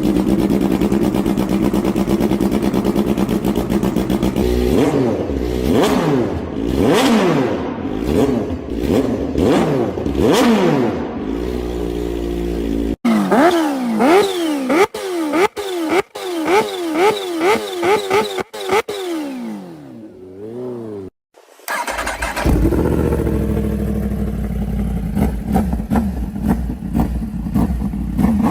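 Motorcycle engines, one after another: an idle at first, then repeated blips of the throttle revving up and dropping back, with abrupt changes to a different bike about 13 seconds in and again about 22 seconds in.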